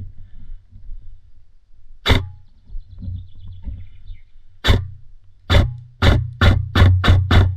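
Airsoft gun firing single shots at close range: one shot about two seconds in, then a quickening string of seven shots over the last three seconds, each a sharp crack with a short low whir of the gearbox.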